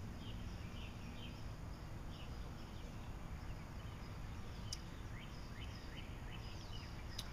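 Steady low background noise with birds chirping repeatedly in short, high, pitch-sweeping calls. Two sharp clicks stand out, one about two-thirds in and one near the end.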